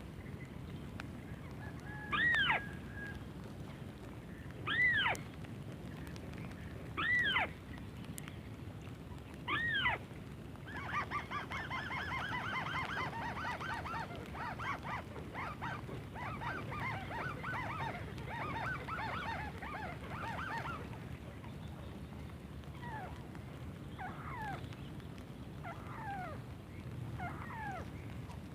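White-browed crake calls: five loud nasal notes about two and a half seconds apart, then a dense run of rapid chattering for about ten seconds, then fainter scattered calls near the end.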